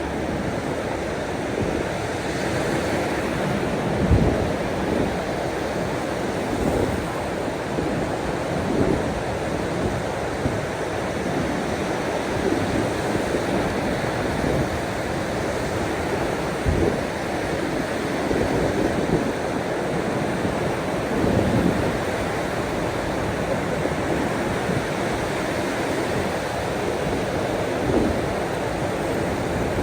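Steady wash of sea waves breaking on the shore, with a few brief low thumps, the clearest about four seconds in.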